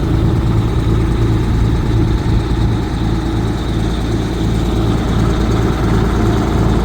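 Engine of a 1988 Amertek 4x4 fire truck idling steadily, just after being started.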